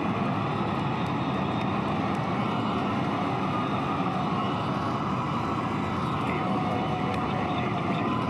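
Rocket engines of SpaceX's Super Heavy booster just after liftoff on the first Starship test flight: a steady, dense rumble of noise that does not let up.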